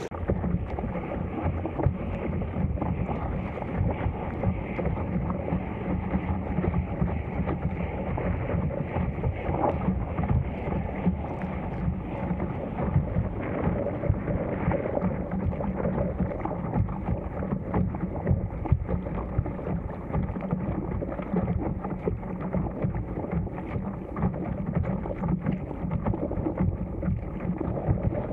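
Steady wind buffeting the action camera's microphone, with water splashing and lapping as the inflatable paddleboard moves through choppy water.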